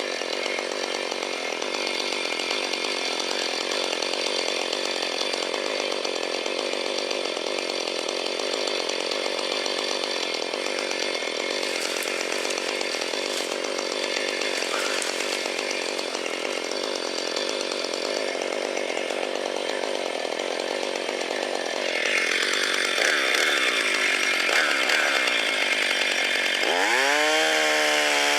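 Two-stroke chainsaw running steadily at speed. Near the end the engine revs up, its pitch rising quickly and then holding high.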